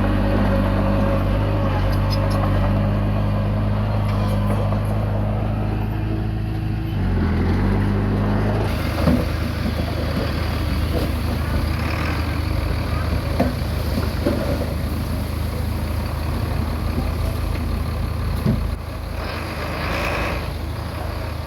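Komatsu D20P bulldozer's diesel engine running steadily, with scattered knocks and clanks. The engine note dips briefly about seven seconds in, and from about nine seconds the sound grows rougher and less steady in pitch.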